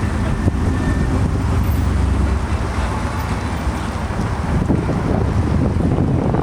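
Wind buffeting the microphone: a steady low rumble with a haze of noise.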